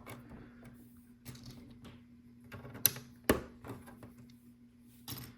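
LEGO plastic pieces clicking and tapping as they are picked out and pressed onto the build, with two sharp clicks about three seconds in and a few more near the end.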